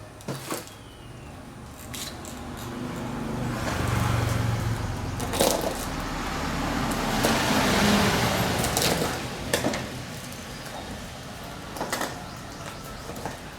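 A road vehicle passing, its noise swelling over several seconds and then fading, with scattered sharp clicks and knocks.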